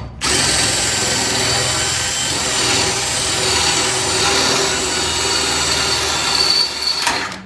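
Electric drill with a stepped-up bit boring out a spot weld in the car's sheet-steel wing, running steadily at full speed with a constant whine. It stops suddenly about seven seconds in.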